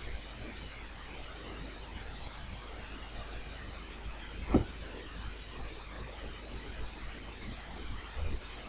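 Steady microphone hiss: the background noise of a voice recording in Audacity, played back before any speech, the noise that the noise-reduction effect is meant to remove. A short thump about halfway through and a fainter one near the end.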